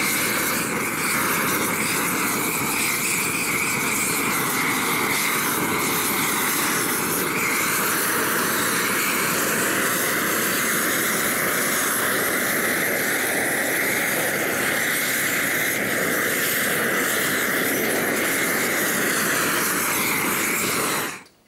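Homemade gas roofing torch burning steadily at full flame while melting on bitumen roll roofing. The noise cuts off suddenly near the end.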